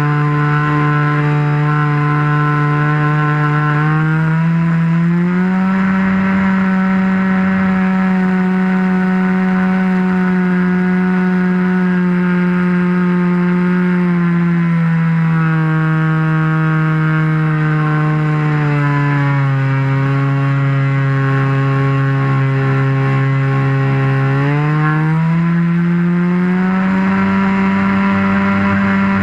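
RC airplane engine and propeller running loud, heard from a camera on top of the wing. The pitch climbs about four seconds in, eases down in two steps around the middle, and climbs again near the end as the throttle is opened and closed.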